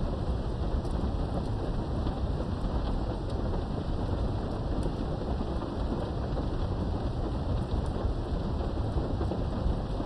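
Steady rain heard through a window during a thunderstorm, an even rushing hiss over a continuous low rumble, with a few sharp drop ticks here and there.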